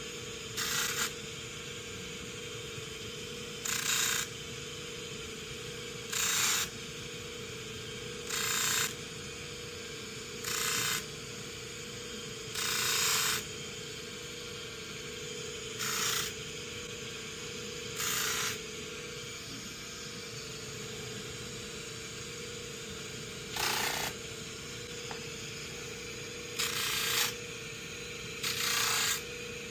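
Bench buffer running steadily with its 240-grit buffing wheel, as a 1911 hammer is pressed against it in short passes: about a dozen brief grinding hisses, each under a second or so, every two to three seconds over the motor's steady hum.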